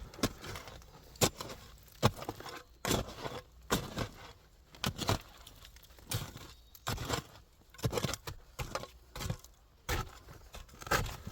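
A hand digging tool working into a seam of earth and old glass and debris: repeated irregular scrapes and knocks, roughly one every second or less.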